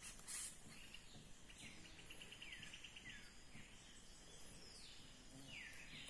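Faint bird calls: a series of short downward-slurred whistles, with a quick run of ticking notes about two seconds in.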